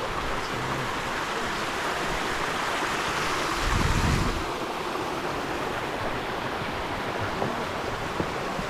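Steady rush of a rainforest stream's flowing water, with a brief low rumble about four seconds in.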